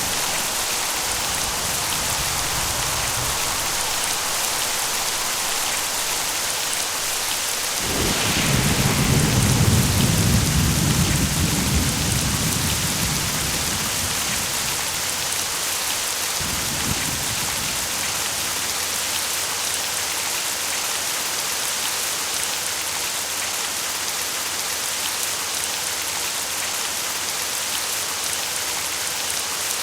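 Steady heavy rain falling, with a roll of thunder rumbling up about eight seconds in and fading over several seconds, and a fainter rumble a few seconds later.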